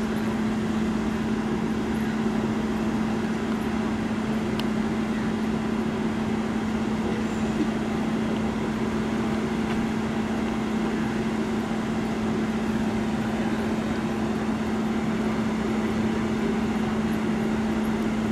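A vehicle engine idling: a steady, unchanging low hum with one constant drone throughout.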